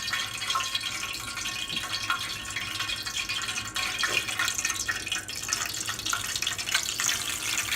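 Hot frying grease in a pan sizzling and crackling, with a dense patter of small pops, the oil heated and ready for frying.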